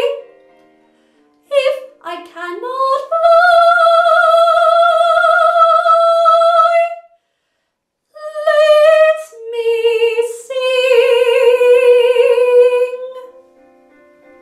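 Solo female voice singing the closing phrases of a musical-theatre song, with long notes held with vibrato and the last one sung lower. A quiet accompaniment, most likely piano, carries on alone near the end.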